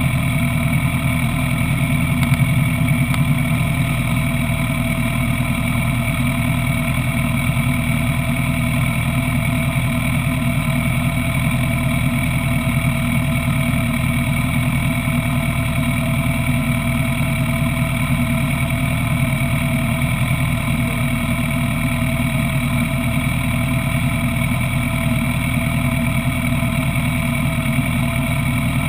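Sport motorcycle engine idling steadily, at a constant speed with no revving.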